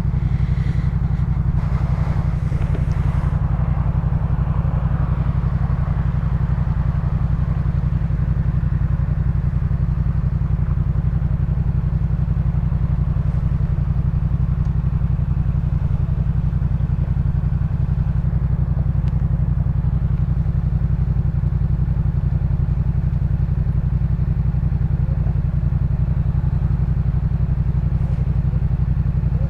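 Yamaha MT-07's 689 cc parallel-twin engine running at a steady engine speed through a Jeskap K4 full aftermarket exhaust, giving a deep, even exhaust note.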